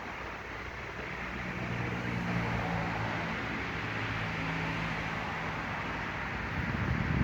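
Low, steady engine hum from about a second in until near the end, over outdoor background noise.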